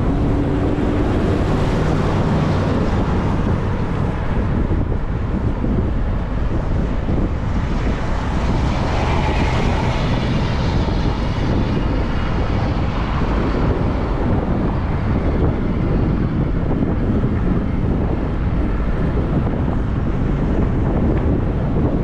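Wind buffeting the microphone of a camera riding along on a moving bicycle, a steady low rumble, with a hissing swell that builds and fades in the middle.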